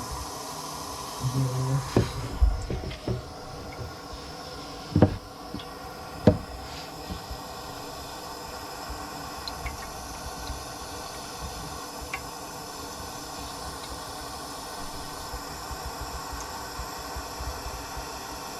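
A few sharp knocks and clatters in the first seven seconds, the loudest about five and six seconds in, over a steady hiss.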